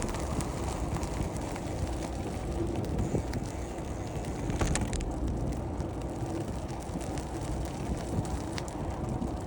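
Wind buffeting the microphone of a moving bicycle, a steady low rumble with scattered light clicks and rattles from the bike as it rolls.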